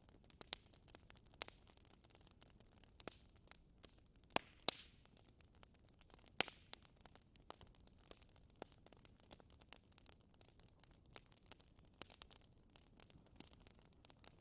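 Wood fire crackling in a fireplace: irregular sharp pops and snaps over a faint steady hiss, the loudest pops a little over four seconds in and again around six seconds in.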